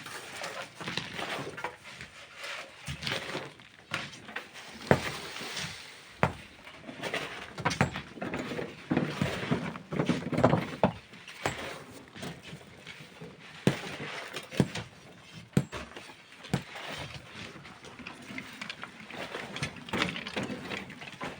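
Hand tools working sand and stone: irregular scraping and rustling, with sharp knocks every second or two.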